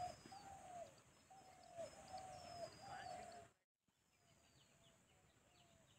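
Faint birdsong: one bird repeats a short, slightly falling call about once a second, and other birds give thin high chirps. The sound cuts out briefly a little past halfway, then the calls go on more faintly.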